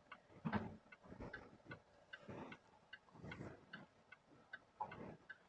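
Car turn-signal indicator ticking steadily and faintly, about two to three ticks a second, as the car makes a U-turn.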